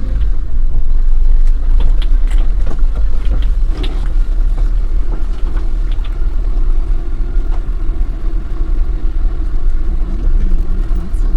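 Maruti Eeco camper van driving, heard from inside the cabin: a steady low road and engine rumble with scattered light ticks and rattles.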